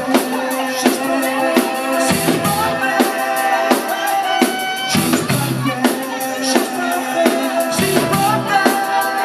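Live rock band playing an instrumental passage, the drum kit keeping a steady beat of about three hits a second under sustained instrument notes.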